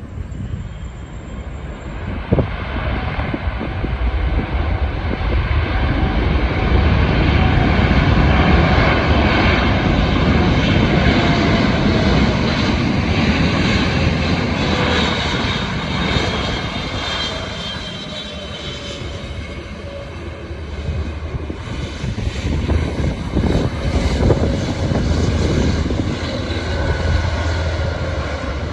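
Arriving airliner flying past on its approach to land: engine noise swells to a peak about a third of the way in, with a whine that falls in pitch as it passes, then eases off before the rumble rises again near the end.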